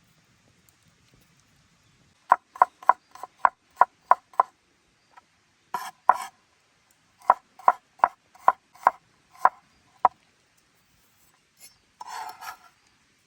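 Knife chopping on a wooden board while whole chickens are cut up: two runs of sharp strokes, about three a second, with a short pause between, then a brief scraping noise near the end.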